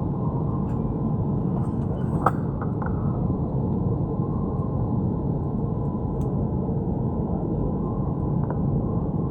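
Steady low rumble and hum inside an airliner's cabin, with a single sharp click about two seconds in.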